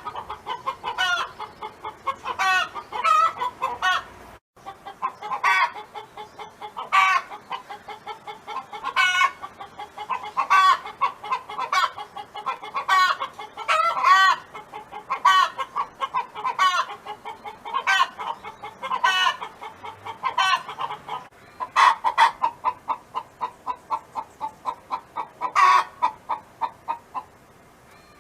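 Domestic hen clucking in a fast run of short clucks, broken every second or two by a louder, longer call. There is a brief gap about four seconds in, and the calling stops shortly before the end.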